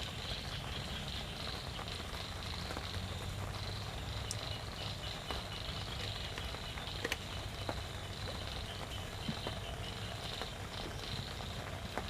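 Close chewing and mouth sounds of someone eating cuttlefish, a low steady rumbling with a few small clicks. Insects chirr steadily in the background.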